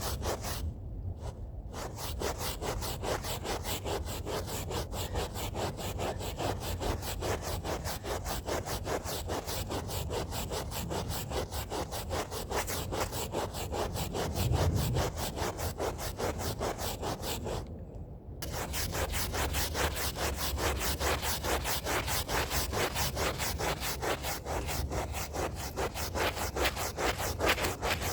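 Stiff hand brush scrubbing a rug in rapid back-and-forth strokes, a steady rasping rub of bristles on carpet fibre. It pauses briefly about a second in and again around eighteen seconds.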